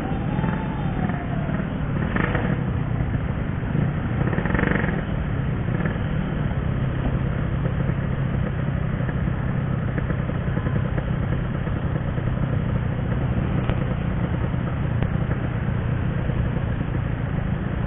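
Yamaha RX-King 135cc two-stroke single-cylinder engine running steadily under way, heard from the rider's position, with wind and road noise mixed in.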